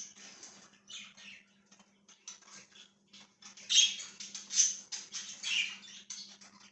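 Pet budgerigars chattering and chirping in short, high-pitched bursts with brief pauses, growing busier and louder around the middle of the stretch.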